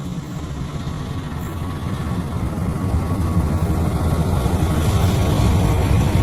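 Diesel-electric locomotive engine of a KAI CC206 running with a deep rumble and a faint steady whine, growing steadily louder.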